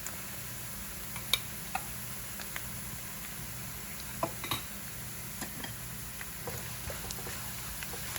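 Chopped onion, ginger and garlic frying in oil in a pan with a steady faint sizzle, as crushed coriander and masala powder are stirred in, with scattered clicks from the stirring.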